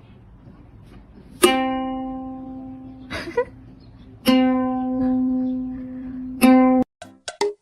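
A single low note on a plucked string instrument, such as a ukulele or guitar, struck three times, each time ringing out and fading. The third pluck is cut off abruptly. A brief scratchy noise falls between the first two.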